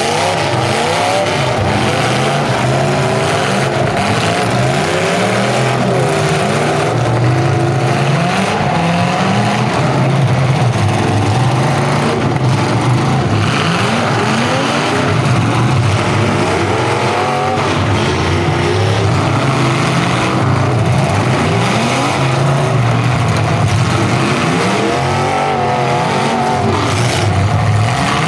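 Several full-size demolition derby cars' engines revving at once, loud and continuous, their pitches rising and falling over and over as the cars throttle up and back off.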